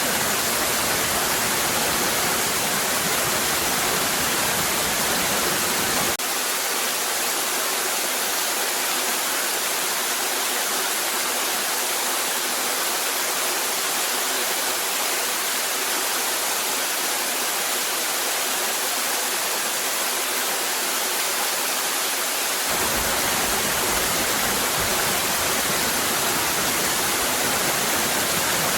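Cascading waterfall: a steady rush of falling water. About six seconds in the deep rumble cuts out abruptly, leaving a thinner hiss, and it cuts back in near the end.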